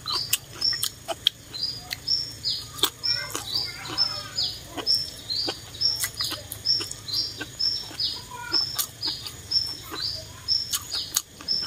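A bird's short, high, falling chirp repeated about three times a second, over the wet chewing and sharp clicks of someone eating noodles with chopsticks.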